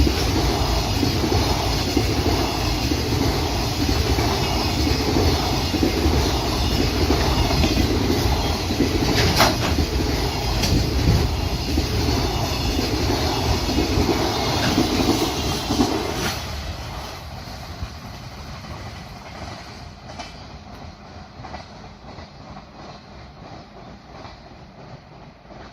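Freight train wagons rolling past, loud and steady, until the end of the train passes about sixteen seconds in and the sound falls away and fades.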